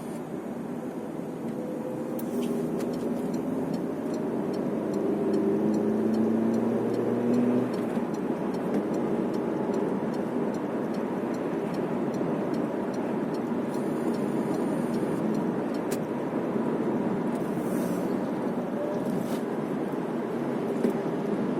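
Steady road and tyre noise from a car driving. An engine note climbs gently for a few seconds, then drops away about seven and a half seconds in.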